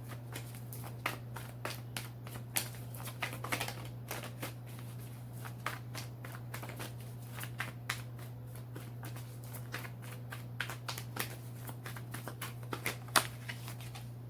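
Tarot cards being shuffled by hand: a steady run of irregular soft clicks and flicks, with a few louder snaps, over a constant low electrical hum.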